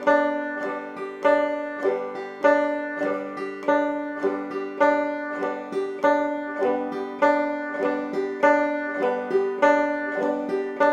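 Five-string banjo played clawhammer style, the basic frailing strum on open strings with no chords fretted, at a fast practice tempo: a steady, even rhythm of single struck notes followed by brushed strums, repeating without a break.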